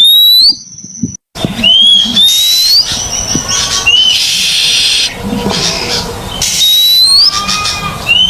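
Recorded song of an oriental magpie-robin: loud, clear whistles sliding upward, repeated about once a second, mixed with harsher chattering notes. In the first second the whistles start and stop with abrupt cuts.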